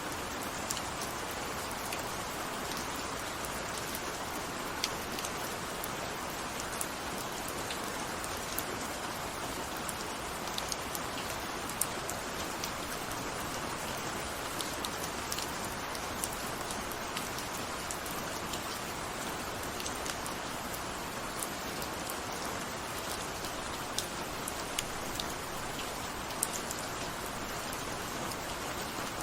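Steady rain falling, an even hiss with many small scattered drop ticks throughout.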